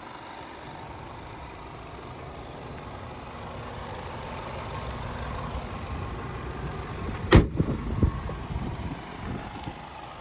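Range Rover Sport's 3.0-litre supercharged V6 idling steadily. A single sharp knock comes about seven seconds in, followed by a few fainter ones.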